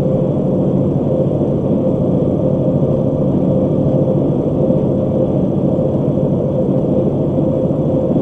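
Steady road and engine noise inside a moving vehicle at highway speed: a continuous low rumble with a constant hum running through it.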